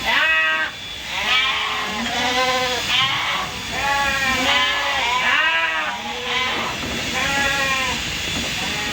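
Sheep bleating over and over, a call about every second, with several calls at different pitches overlapping.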